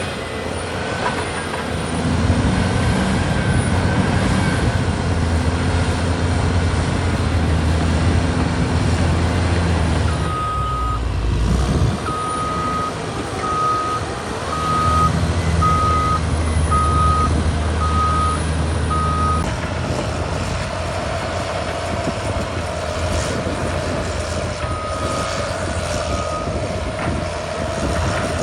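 Cat D6R2 crawler bulldozer's diesel engine running, with its reverse alarm beeping about once a second for several seconds midway and twice more near the end, as the dozer backs up.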